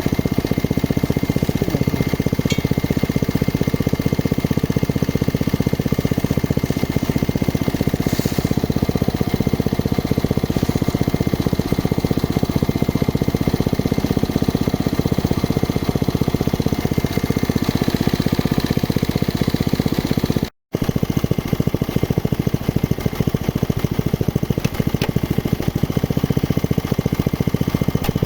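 Geological exploration drilling rig running steadily: a loud, even mechanical engine-and-drive noise. It cuts out for a split second about two-thirds of the way through, then carries on unchanged.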